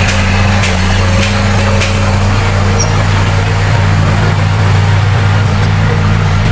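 Heavy diesel earthmoving machinery engine running steadily with a deep, continuous drone, with a few faint regular clicks in the first two seconds.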